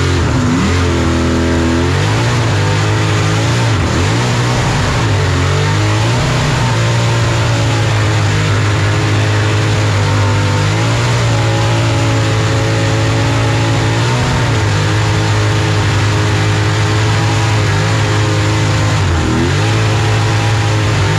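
Supercharged burnout car engine held at high revs during a burnout, with brief drops in revs about half a second in, about four seconds in and near the end, heard from inside the cabin.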